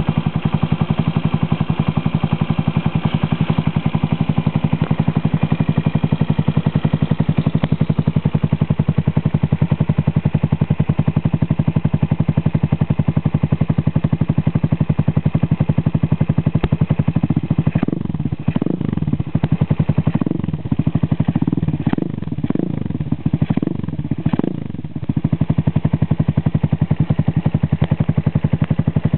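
Bashan BS200 S7 200 cc engine running through an Arrow aftermarket exhaust, idling steadily. About seventeen seconds in it is given a run of about half a dozen short throttle blips over some eight seconds, then drops back to idle.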